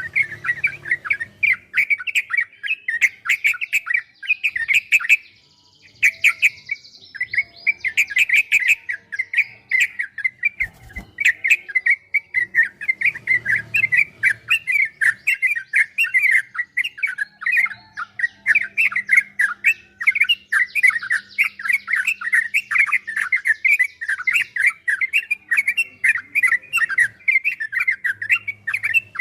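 Yellow-vented bulbul (trucukan) singing a long, rapid, almost unbroken run of chirping, bubbling notes, the fast 'ropel' song, with a brief pause about five seconds in.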